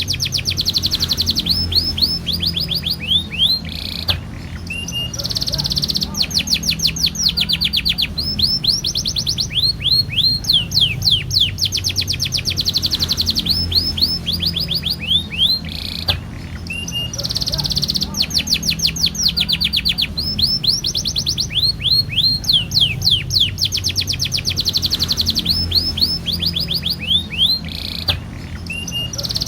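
Domestic canary singing long, rapid trills of quick falling notes, phrase after phrase with only brief breaks, over a steady low hum.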